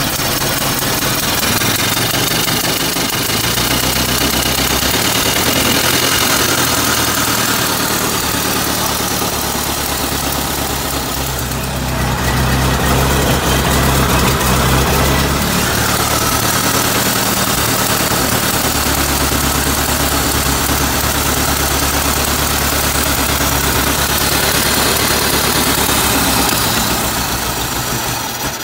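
Freshly rebuilt 1927 Ford Model T four-cylinder flathead engine running on a cold start, its speed rising and falling a few times, then dying right at the end, which the owner puts down to probably being out of gas.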